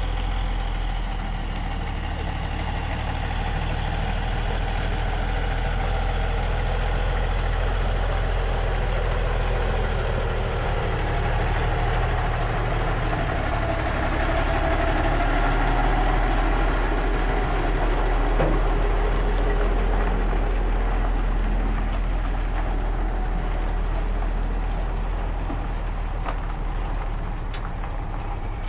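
Truck engine running steadily, its low note shifting about halfway through.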